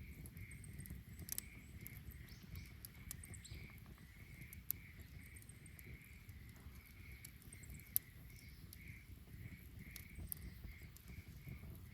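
Wood fire burning with a low steady rustle and scattered sharp crackles and pops, the loudest one about eight seconds in. Behind it a high chirp repeats steadily, about three times a second.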